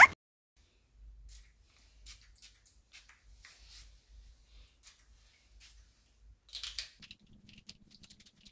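Faint, scattered small clicks and rustles, as of small objects being handled, with a faint low hum joining in about seven seconds in.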